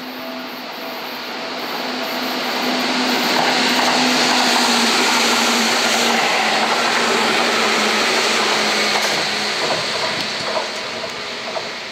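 Seibu 10000-series limited-express electric train passing through a station without stopping. The rush of wheels on rail builds as it approaches, is loudest while the cars go by close at hand, then fades as it runs away.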